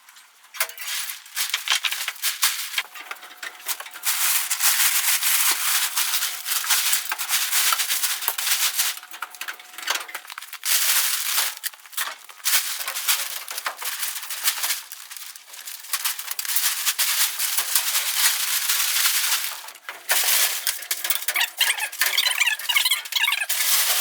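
Plastic sheeting crinkling and rustling as it is pulled off and bunched up, in long crackly spells with short breaks about ten and twenty seconds in.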